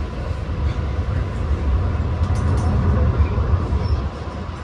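Long Island Rail Road train running, a steady heavy low rumble with a few light clicks about two and a half seconds in. The rumble eases slightly near the end.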